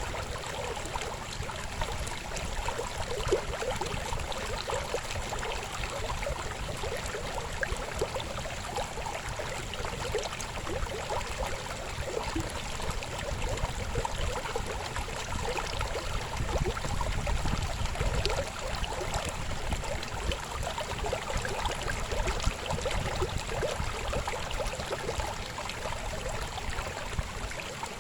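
River flowing over rocks, a steady babbling and gurgling with a low rumble beneath.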